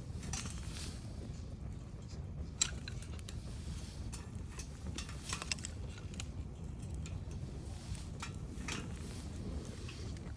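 Wood fire crackling, with irregular sharp pops over a steady low rumble; the loudest pop comes about two and a half seconds in.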